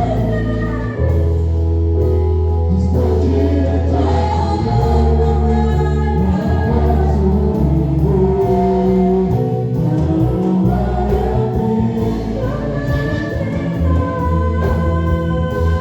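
Gospel worship song: several voices singing together over band accompaniment with long held bass notes.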